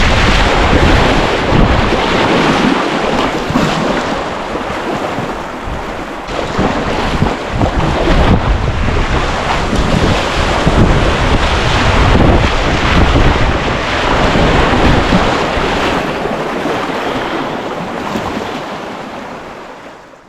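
Wind buffeting the microphone in gusts over a steady rush of water, fading out near the end.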